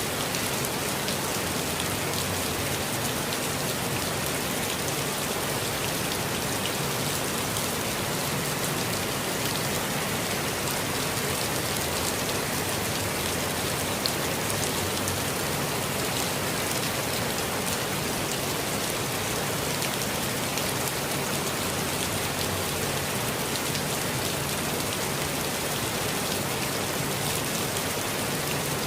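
Steady rain falling in a forest, a dense even patter of many drops with fine individual drips.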